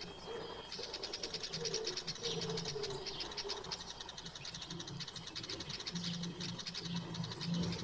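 Birds calling: a low, wavering cooing, with a dense chatter of rapid high chirps joining about a second in.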